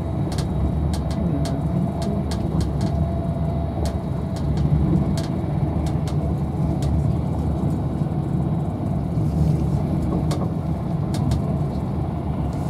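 Inside a moving Avanti West Coast Class 390 Pendolino electric train: a steady low rumble of the wheels and running gear on the track, with sharp clicks and ticks scattered through it.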